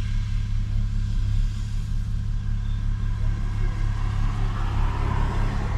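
Toyota Mark X's V6 engine and modified exhaust running steadily, a low, even drone with no revving.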